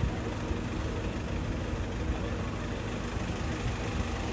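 A vehicle's engine running steadily, with a low hum and road noise.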